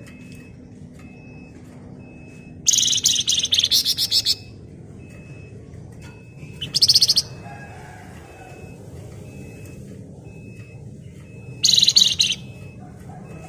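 Flamboyan songbird singing in three bursts of rapid, shrill chattering trills, the first about three seconds in and the longest, a short one in the middle and another near the end. Between the bursts a faint short high pip repeats about twice a second over a low steady hiss.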